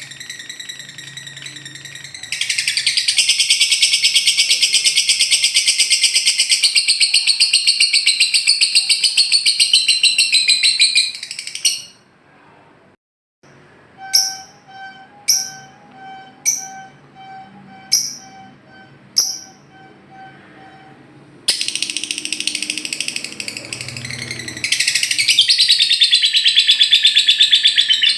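Lovebird 'ngekek' song: long, very rapid, high-pitched trilling chatter held for several seconds at a time. About halfway it stops and gives way to a string of short, sharp chirps roughly once a second, then the long trill resumes.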